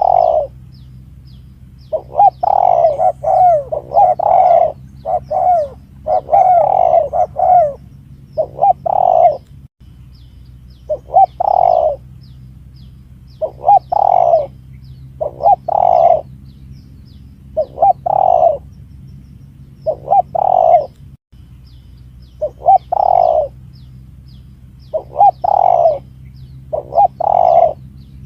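Spotted dove (tekukur) cooing, a lure recording played for bird trapping: short coo phrases repeat about every two seconds, some run together into longer bouts, over a faint steady hum.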